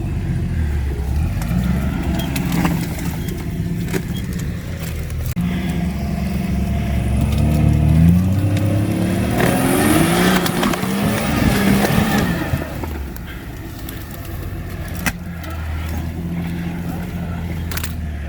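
Engine of a built off-road rock crawler running at low revs. About eight seconds in it revs up and down for several seconds under load, then settles back. A few sharp knocks come through, about four in all.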